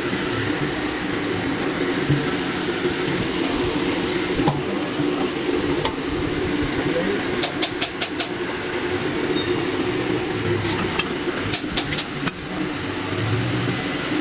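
An engine running steadily, with a few sharp clicks or taps in two short clusters, one just past the middle and one a few seconds later.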